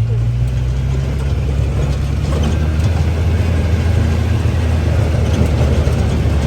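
Ranch vehicle's engine running with a steady low drone while it drives over a rough, rocky dirt road, with the body and load rattling over the bumps.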